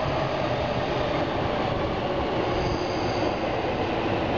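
Orange-striped Chuo Line electric commuter train moving along the platform, giving a steady rumble of wheels on rail. A faint high squeal comes in about two and a half seconds in and fades within a second.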